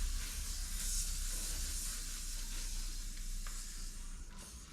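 Air hissing out of a bicycle tyre's inner tube through its valve as the tyre is let down, fading slowly as the pressure drops.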